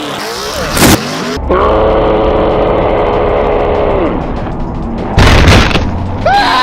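Demolition derby cars crashing: a sharp hit about a second in and a louder, longer crash about five seconds in. Between them a steady pitched tone holds for a couple of seconds, then drops away.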